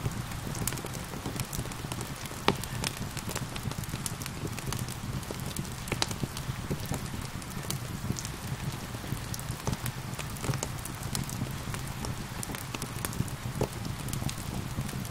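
Wood fire crackling and popping, with irregular sharp snaps (the loudest about two and a half seconds in) over a steady low rumble of flames and a soft haze of falling rain.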